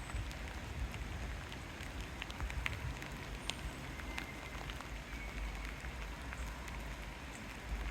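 Steady rain falling, with many small drop ticks scattered through it over a constant low rumble.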